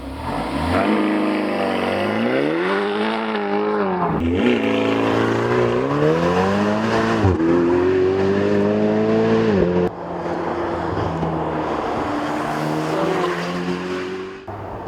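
Sports car engine and exhaust accelerating hard through the gears: the pitch climbs, drops at a quick upshift about four seconds in and again about seven seconds in, and climbs again until a sudden break near ten seconds. After that the engine runs at a steadier, lower pitch with a slight rise.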